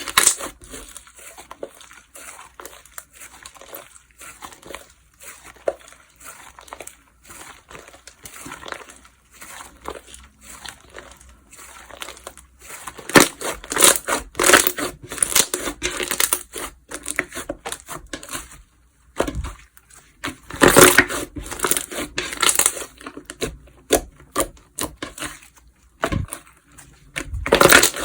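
Slime being squished and pressed by hand, making irregular clicking and crackling sounds. It is quieter and sparse for roughly the first half, then comes in louder clusters of squishing.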